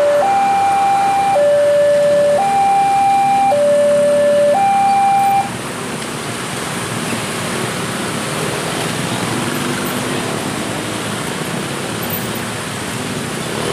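Two-tone hi-lo siren alternating between a high and a low note, each held about a second, cutting off suddenly about five seconds in. After that there is only a steady noise.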